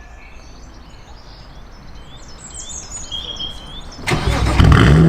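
Birds chirping over quiet outdoor background, then about four seconds in a BMW 135i's 3.0-litre twin-turbo straight-six, fitted with a straight-through exhaust, is started and runs very loud near the end.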